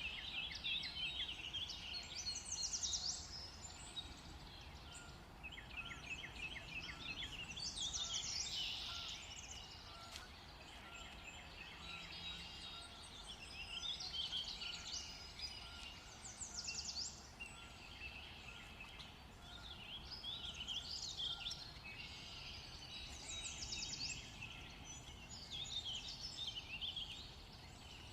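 Several birds singing and calling at once. Bursts of quick chirps and trills overlap and recur every few seconds, over a faint low rumble.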